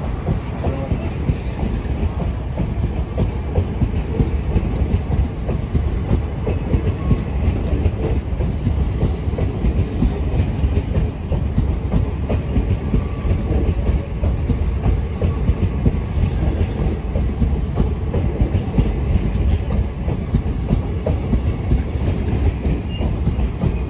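Passenger train coaches rolling past, wheels clattering steadily over the rail joints under a continuous low rumble.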